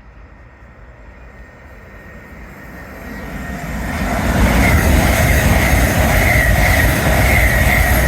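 Train approaching and running through the station, the rush of wheels on rail building over about four seconds to a loud, steady roar with a high whine over it.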